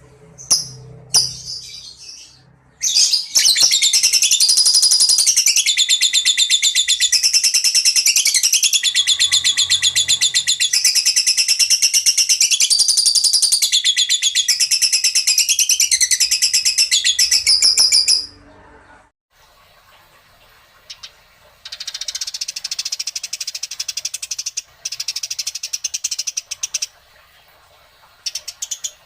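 Recorded songbird song: a long, loud run of rapid, high-pitched trills and chatter that stops abruptly about 18 seconds in, followed by quieter bursts of similar trilling.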